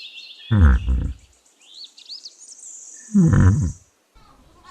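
Yak grunting three times in deep, low calls: two close together about half a second in and a longer one about three seconds in. Small birds chirp faintly in the background.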